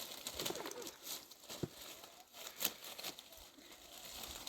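Irregular rustling with scattered light clicks and knocks, like things being handled.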